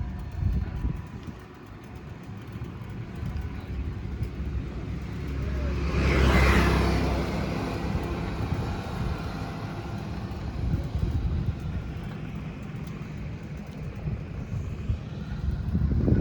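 Road traffic heard from a moving bicycle: a low rumble throughout, with one vehicle passing close by about six seconds in, rising and then fading away.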